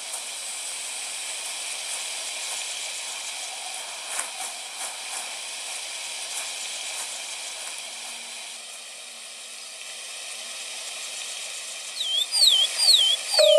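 Steady high-pitched hiss of outdoor ambience with a few faint clicks. Near the end come three quick whistled calls, each sweeping up and down.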